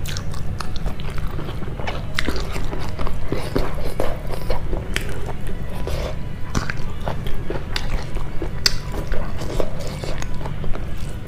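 Close-miked chewing and mouth sounds of someone eating rice and a raw green vegetable by hand: irregular wet smacks and small crunches, over a steady low hum.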